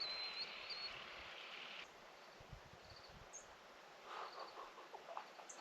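Faint insect trilling in a field, with a thin high whine over it, stopping abruptly about two seconds in; a few faint, brief high chirps follow.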